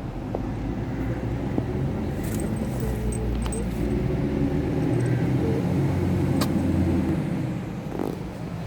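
Low rumble of road traffic, swelling from about four seconds in and easing off near the end, with a few faint clicks.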